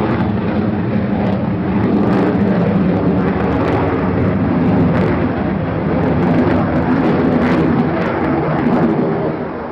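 Aircraft in flight, its engine noise loud and steady, dropping away near the end.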